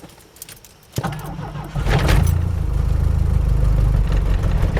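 A few key clicks at the ignition, then about a second in the starter cranks briefly and the 1991 Chevy S10's 2.5-litre four-cylinder fires. It settles into a loud, steady cold-start run, a little rough after three weeks sitting in the cold.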